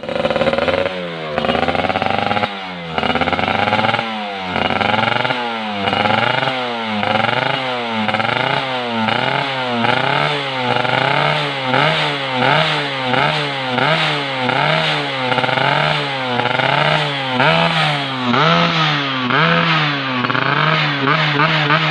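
Yamaha F1ZR's two-stroke single-cylinder engine revved over and over through an AHAU racing exhaust: a buzzy, raspy note that climbs in pitch with each throttle blip and falls back, about once a second.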